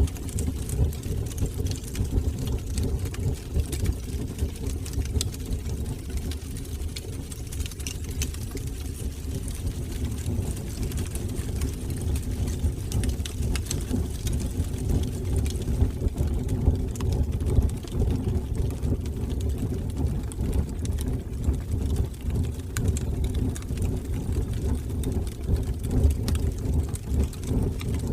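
Wood fire burning in a fireplace: a steady low rumble of the flames, with scattered crackles and pops.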